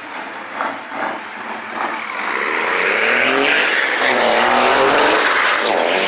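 A car's engine revving hard as the car accelerates away, its pitch climbing and the sound growing loud from about two and a half seconds in. A few short pops come before it.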